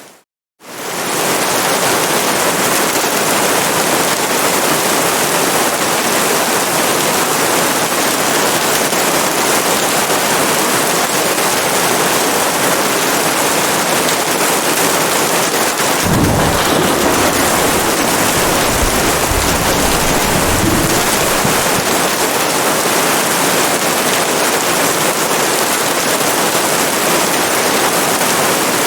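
Steady heavy rain, a dense even hiss, starting just after a brief moment of silence. About halfway through, a low rumble of thunder rolls in for several seconds.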